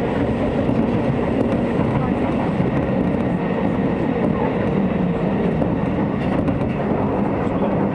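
Hokuso Railway 9000 series electric train running at speed, heard from inside the passenger car: a steady rumble of wheels on the rails with running noise.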